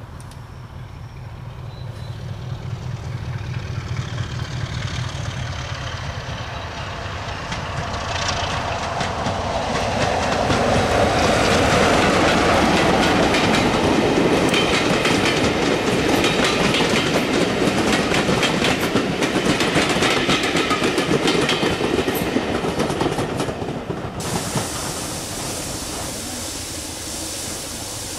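A passenger train approaching and running past close by, its wheels clicking over the rail joints, growing louder to a peak as the coaches go by and then cutting off. Near the end, the steady hiss of a steam locomotive standing at a platform.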